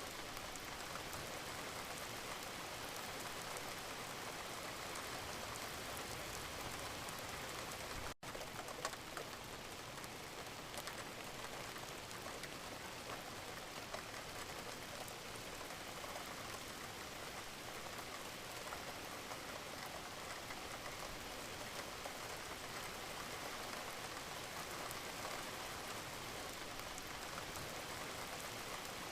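Steady rain, with a dense patter of individual drops over an even hiss. The sound cuts out for an instant about eight seconds in.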